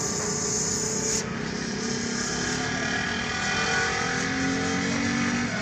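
A motor or engine running steadily, its pitch drifting slowly up and down.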